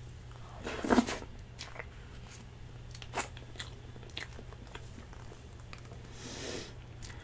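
Close-up mouth sounds of someone eating soft cheesecake and cream, chewing with small wet clicks. There is a louder burst about a second in and a short soft hiss near the end.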